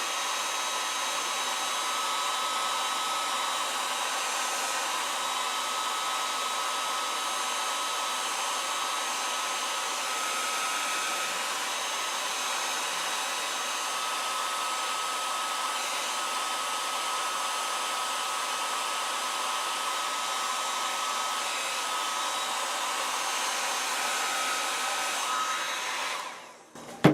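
Hair dryer blowing steadily, a constant rush of air with a faint steady whine, used to heat heat-shrink tubing over soldered wires; it is switched off near the end and falls away quickly.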